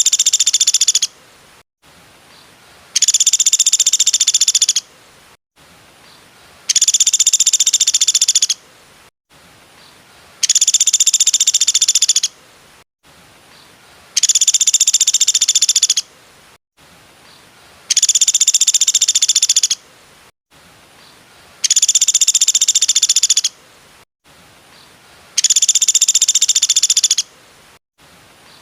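A bird's rapid, tightly packed trill, about two seconds long, repeated as an identical loop about every three and a half to four seconds: seven full calls plus the tail of one at the start. A low hiss fills the gaps.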